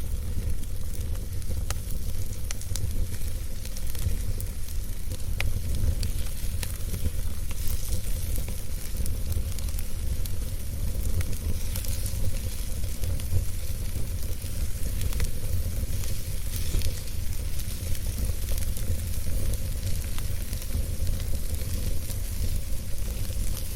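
Wood campfire burning, with scattered crackles and pops over a steady low rumble and hiss.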